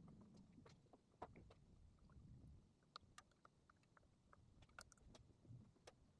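Near silence: a faint low rumble with a few scattered light ticks.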